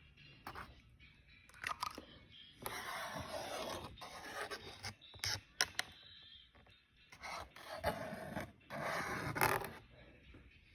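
Drawing strokes: a drawing tool scratching across a drawing surface in irregular short and longer strokes, with a few sharp taps in between.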